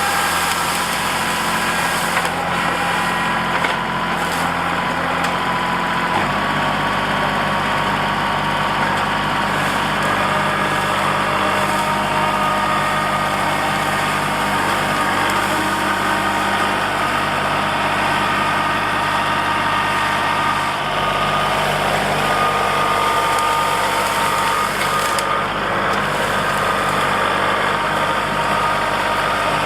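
Kubota L3901 compact tractor's three-cylinder diesel engine running steadily, its pitch shifting about six seconds in.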